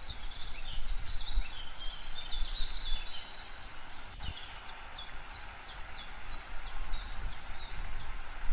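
Birds chirping and twittering over a low rumble, with a quick run of repeated falling notes, about three a second, in the middle.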